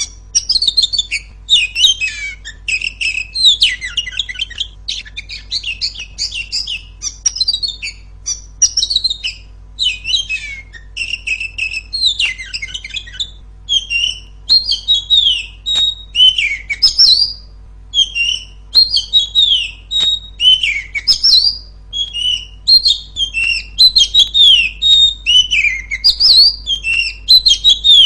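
Oriental magpie-robin singing loudly, a fast run of varied whistled phrases with sweeping rising and falling notes, one phrase after another.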